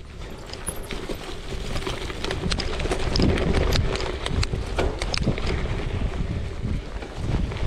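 RITEWAY Sonoma Adventure gravel bike ridden over rough ground: the tyres crunch on the surface, with irregular rattling clicks and knocks and a heavy low rumble.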